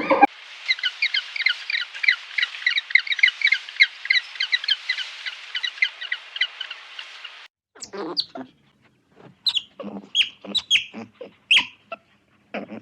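Birds calling: a rapid run of short, high chirps, several a second, that cuts off suddenly after about seven seconds, followed by a string of separate, louder and coarser calls.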